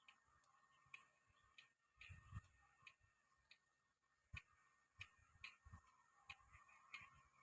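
Near silence: faint room tone with soft, irregular clicks, about one or two a second.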